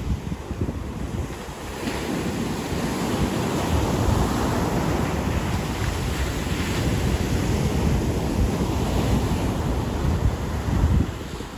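Ocean surf breaking and washing up the beach, swelling in the middle and easing near the end, with wind rumbling on the microphone in gusts.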